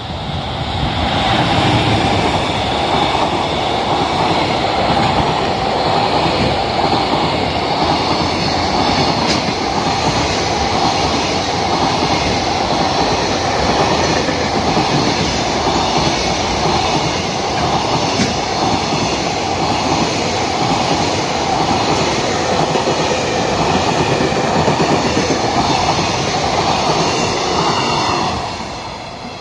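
Container freight train hauled by an EF210 electric locomotive passing through a station without stopping: the wheels of the long string of container wagons running on the rails, loud and steady, dropping away quickly near the end as the last wagon goes by.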